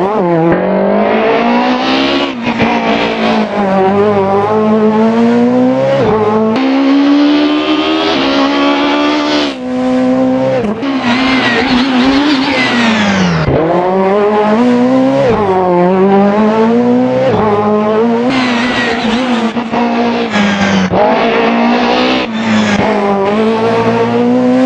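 Peugeot 306 Maxi rally car's engine driven hard, its pitch climbing steadily in each gear and breaking off sharply at quick gear changes, over and over. Now and then it drops low and climbs back under lifts and downshifts.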